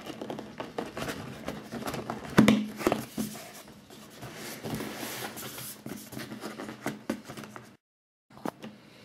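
Cardboard box being opened by hand: crackling and rustling of cardboard flaps and packing, with two sharper knocks about two and a half and three seconds in.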